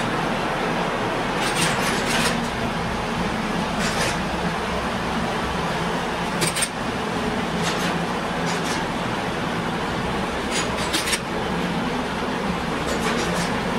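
Workshop machinery running steadily with a low hum, with a dozen or so sharp clicks scattered through it, some in quick pairs.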